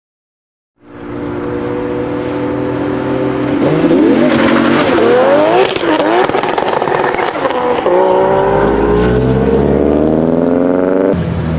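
Nissan Silvia's engine, coming in about a second in at a steady speed, then revved up and down several times, then pulling with slowly rising revs and a deep low rumble.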